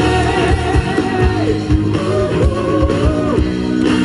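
Live rock band playing: a steady drum beat and electric guitar with a melodic line held and bent over them.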